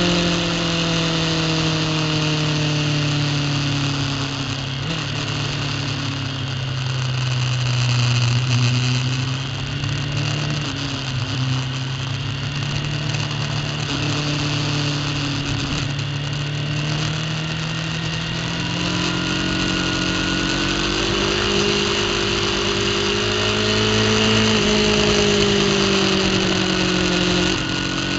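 Racing superbike engine heard from on board at speed. Its pitch falls early on and stays low for a stretch. It climbs again after about twenty seconds, then drops sharply near the end at a gear change.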